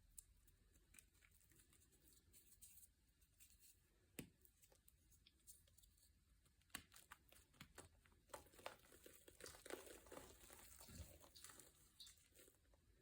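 Faint crinkling and crackling of some crinkly material being handled or crushed, with scattered sharp clicks that come thicker in the second half.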